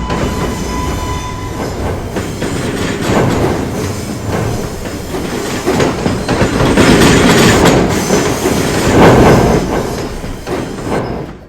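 New York City subway train running through the station: a loud rumble with wheels clattering over rail joints, swelling loudest about two-thirds of the way through.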